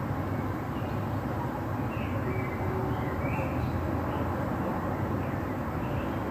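Steady low rumble of distant traffic under the even hiss of light rain, with a few short high chirps about two to three and a half seconds in.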